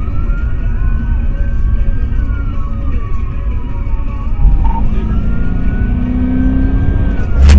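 Police siren wailing in slow rising and falling sweeps, twice, over heavy engine and road rumble from a car moving at speed. A lower engine tone joins about halfway, and a sharp knock comes at the very end.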